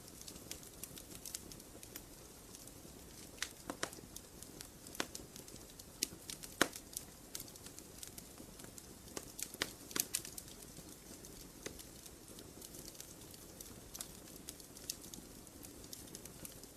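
Wood campfire burning with a low steady hiss and irregular sharp crackles and pops, several louder pops about four, six-and-a-half and ten seconds in.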